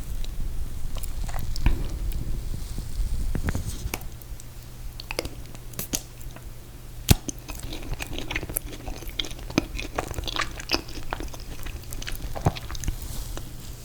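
Close-miked chewing and mouth sounds of someone eating ice cream cake: soft wet smacks and scattered small clicks, with one sharp click about seven seconds in.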